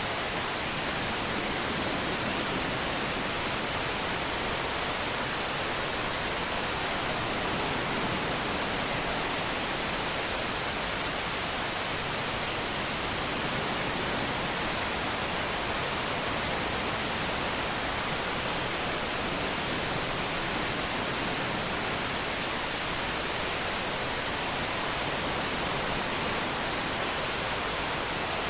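Steady, even rush of a waterfall, unchanging throughout.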